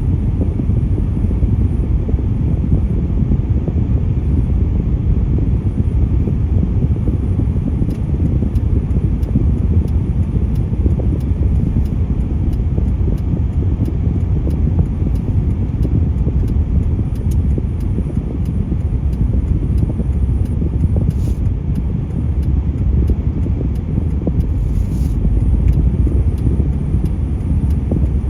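Steady low rumble of road traffic, with no clear pass-by swell.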